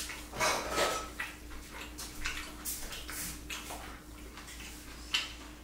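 A person eating rice by hand: a string of short, irregular wet chewing and lip-smacking sounds, over a faint steady hum.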